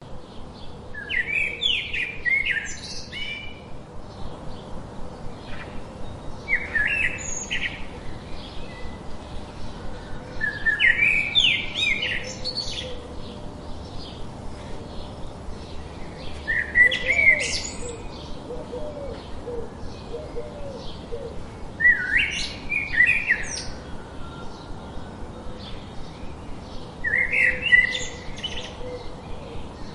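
A songbird singing short, quick phrases of chirps, six of them spaced about five seconds apart, over a steady faint outdoor hiss.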